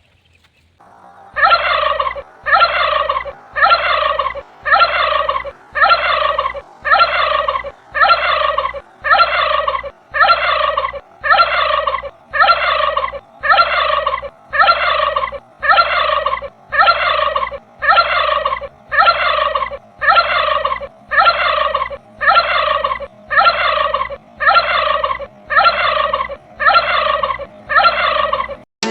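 Turkey gobbling: the same falling, rattling gobble repeated at a perfectly even pace, about once a second, starting about a second in.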